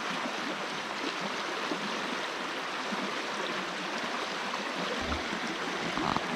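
Grey Wolf River white water rushing steadily over rocks, with a brief low rumble about five seconds in.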